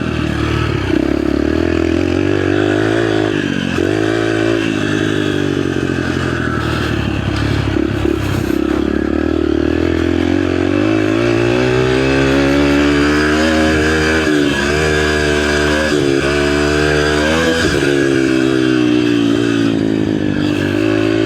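Mini bike engine being ridden hard, its revs rising and falling with the throttle. Several times the pitch drops and then climbs again.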